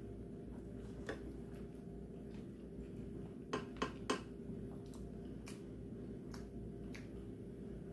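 Eating utensils clicking against dishes during a meal: a few light clicks, three of them close together about three and a half to four seconds in, over a steady low hum.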